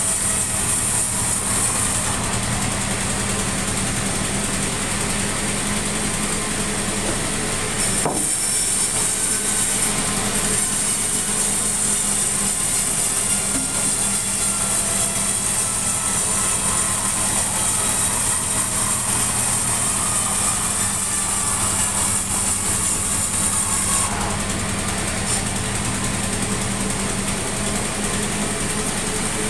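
Sawmill machinery running steadily, an engine-like hum under a high hiss, with a short knock about eight seconds in.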